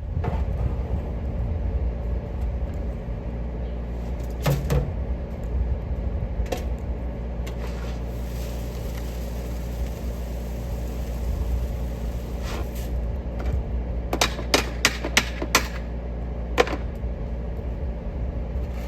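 Steady low mechanical hum of a running machine, with scattered knocks and a quick run of about six sharp clicks a little past the middle.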